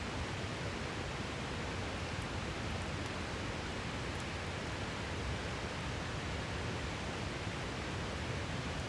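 A river rushing steadily, with a few faint crackles from a wood campfire.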